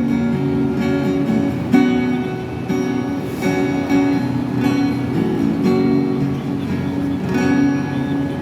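Acoustic guitar strumming chords with no voice over it, the instrumental close of the song.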